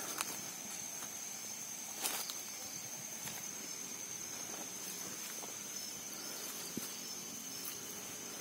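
Forest insect drone: one steady, high-pitched tone held throughout, with a couple of short sharp clicks of footsteps on the forest floor, the louder one about two seconds in.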